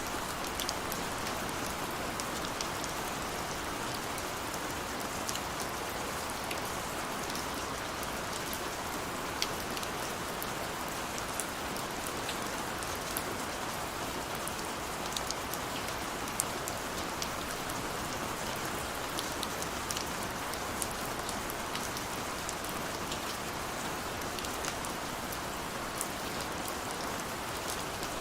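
Steady rain falling, a continuous hiss with many separate drops ticking irregularly on hard surfaces close by.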